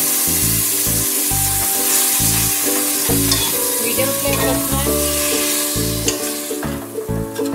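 Soaked lentils sizzling in hot oil and fried onion in a pressure cooker while a steel ladle stirs them; the sizzle dies down near the end. Background music plays underneath.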